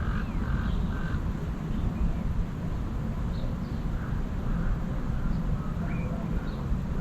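Scattered short bird calls and chirps over a steady low rumble, with the rumble the loudest part.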